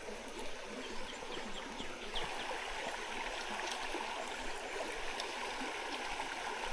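Shallow trout stream running over rocks: a steady rush and gurgle of moving water, with a few faint high chirps about two seconds in.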